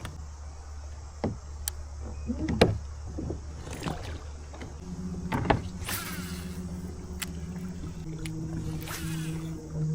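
Electric outboard motor on a fishing kayak running: a steady whine starts about halfway and steps up in pitch near the end as the speed is raised. Scattered knocks sound throughout.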